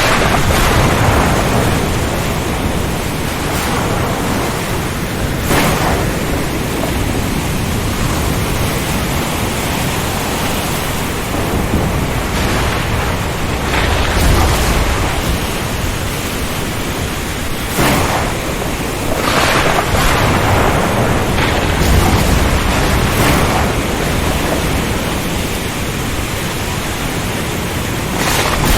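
Ocean storm ambience: a dense, steady rush of rain and strong wind, broken every few seconds by short cracks and low rumbles of thunder.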